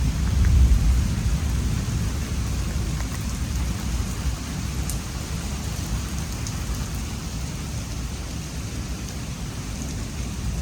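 Thunder from a supercell thunderstorm rumbling, loudest about the first second and slowly fading, over steady rain.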